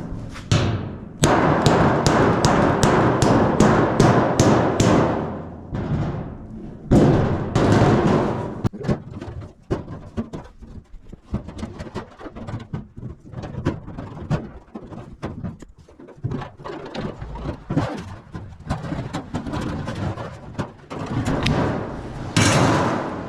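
Hammer pounding a flathead screwdriver through thin sheet-metal ductwork to punch a starter hole, a fast run of ringing metal blows, about three a second, with each strike making the duct ring. After a second cluster of blows come lighter, irregular metallic taps and clicks as the work goes on.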